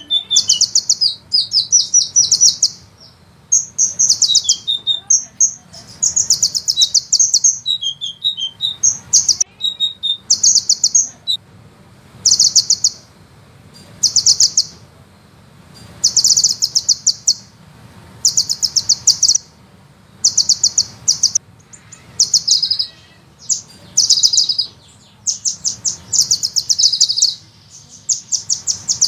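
Sunbird song: rapid, high trills, each about a second long, repeated one after another with short pauses.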